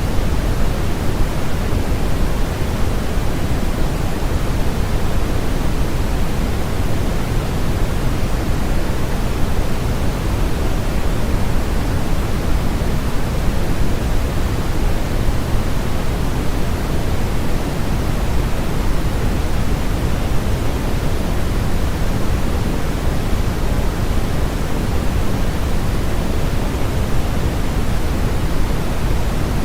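Steady electronically generated noise of the sleep-aid "white noise" kind: an even, unbroken hiss, heavier in the low end than at the top.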